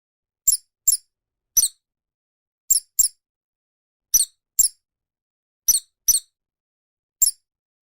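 A small animal's high-pitched squeaks: about ten short calls, mostly in pairs, each with a quick wavering pitch.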